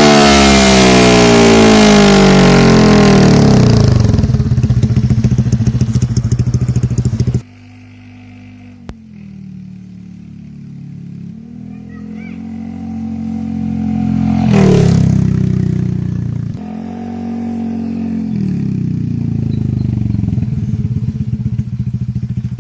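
Honda Vario 150 scooter's single-cylinder engine running through an R9 New Mugello aftermarket exhaust with its glass wool packing removed, which leaves it loud and open-sounding. It is revved high at first with the revs falling away, then runs at a lower speed with one short rev blip about two-thirds of the way through.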